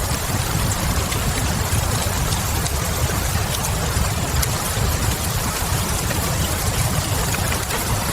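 Steady rain with a low rumble beneath it, and scattered small pops from a crackling wood fire.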